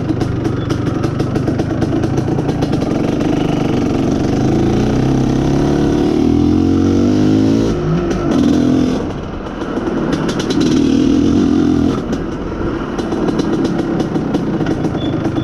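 IZh Planeta Sport motorcycle's single-cylinder two-stroke engine running, its pitch rising steadily for a few seconds and then dropping off sharply about halfway through. It rises again briefly near the two-thirds point before settling back.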